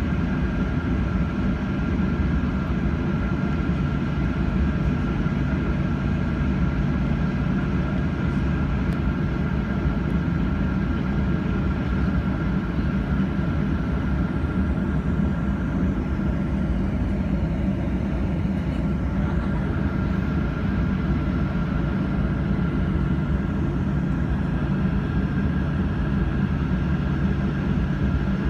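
Boeing 737-800's CFM56 jet engines running at a steady power: a constant low rumble with a steady whine over it, not rising or falling.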